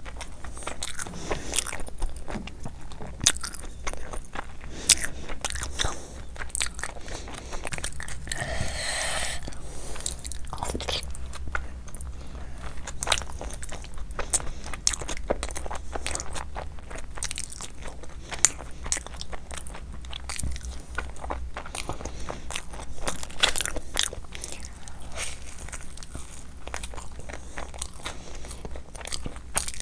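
A person eating with their hands: steady chewing and biting, with many short wet mouth clicks and crunches and a brief louder rustle about nine seconds in.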